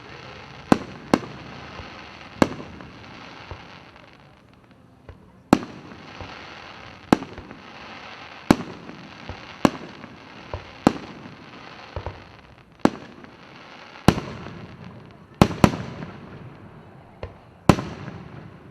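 Aerial fireworks display, with about fifteen sharp bangs from shells bursting at uneven intervals. Crackling and rumbling echoes trail after each burst.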